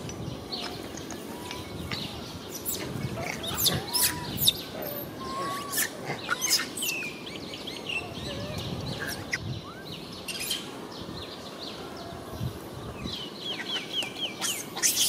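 Birds chirping and calling: many short chirps, with quick runs of repeated chirps about midway and again near the end.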